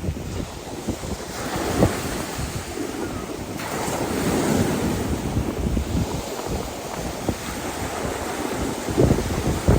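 Mediterranean Sea waves washing in, with gusty wind buffeting the microphone. A wave surges up about a second and a half in and peaks around four to five seconds, and wind thumps come stronger near the end.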